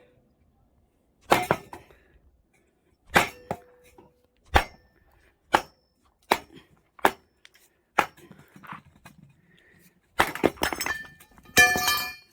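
Hammer blows driving a firewood log down onto a welded steel cross-shaped splitting blade: about eight sharp knocks with uneven gaps, some with a brief ring. Near the end comes a denser clatter with ringing metal.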